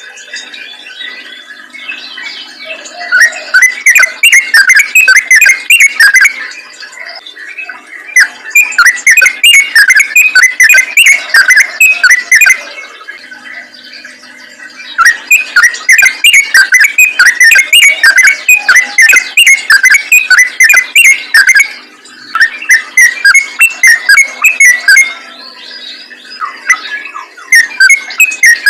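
Yellow-vented bulbul (trucukan) singing long bursts of rapid, chattering notes in the fast 'ropel' style, several phrases of a few seconds each with short pauses between.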